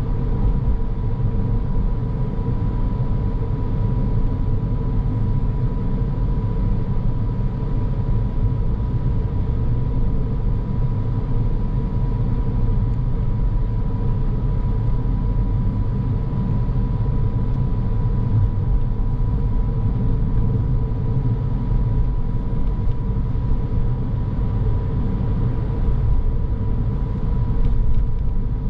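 Car driving steadily on a road, heard from the car: a constant low rumble of tyres and engine, with a thin steady whine running over it.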